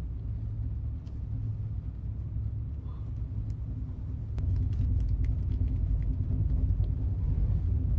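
Steady low rumble of a train running, heard inside the passenger coach, growing louder about four and a half seconds in, with a few faint small clicks over it.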